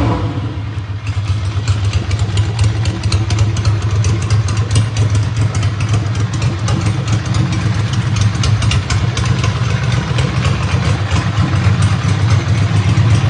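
2002 Ducati Monster's 90-degree L-twin idling steadily through a Voodoo slip-on exhaust.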